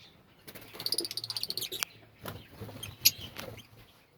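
Lovebirds chattering: a rapid burst of high, fast-pulsed chirps, then a few separate sharp high calls.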